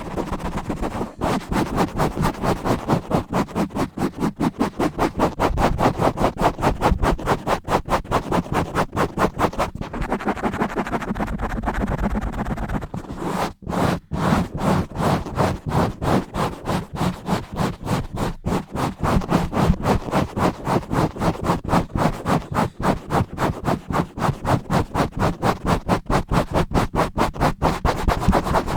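Fast, rough scratching straight on a microphone, heard as a rapid, steady run of scratch strokes, with a brief break about halfway through.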